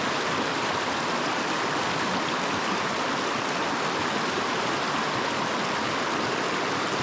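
Small creek water rushing steadily.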